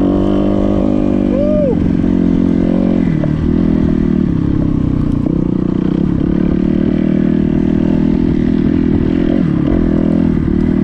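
Dirt bike engine running steadily and loudly, its pitch holding nearly level with small wobbles.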